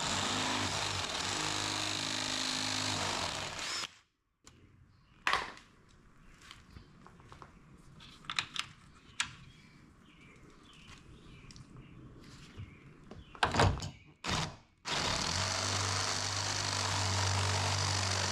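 Power drill with a step bit running steadily, drilling out a bracket on the door's weather stripping. It stops after about four seconds, a few clicks and knocks follow, and the drill starts again near the end.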